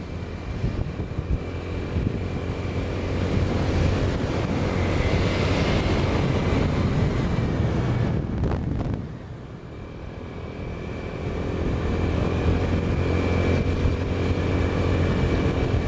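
Sugar cane train's diesel locomotive engine running with a steady low drone and a thin high whine. It drops away briefly about nine seconds in, then swells back.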